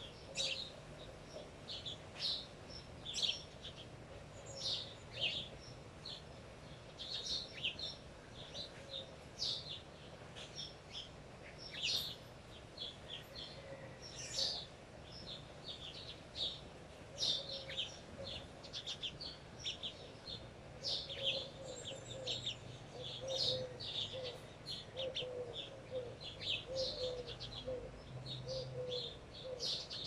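Wild birds chirping: many short, high calls overlapping throughout. In the second half a lower note repeats about once or twice a second.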